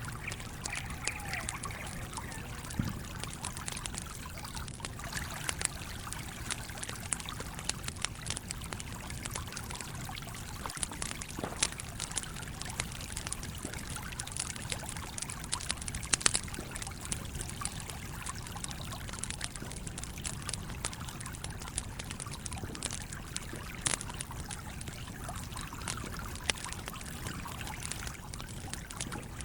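Campfire crackling, with irregular sharp pops and snaps, over the steady rush of a flowing stream.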